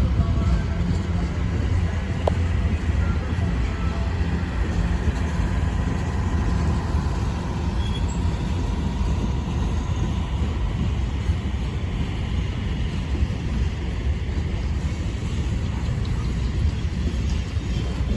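Freight train rolling past: a steady low rumble of wheels on the rails, with a faint thin squeal through the middle.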